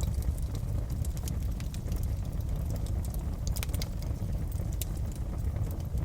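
Wood fire crackling in a fireplace: a steady low rumble from the burning, with frequent sharp crackles and pops and a brief cluster of them about three and a half seconds in.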